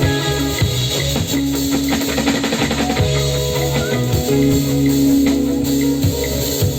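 Instrumental organic trance music from a live band: guitar lines and held notes over a steady drum-kit and percussion beat with bass.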